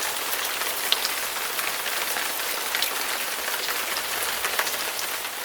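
Steady rain falling, an even hiss with scattered sharp drop clicks.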